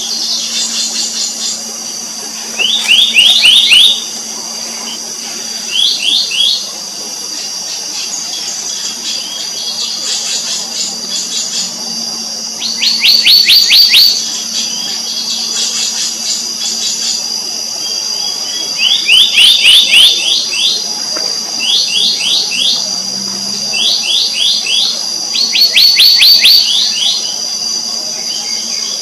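Black-naped monarch calling in short, rapid series of sharp rising notes, each burst about a second long and repeated every few seconds, over a steady high-pitched background drone.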